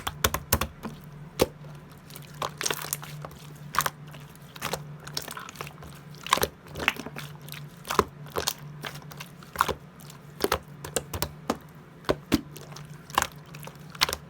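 Purple clear slime and pearl slime being handled, giving irregular sharp clicks and pops, several a second.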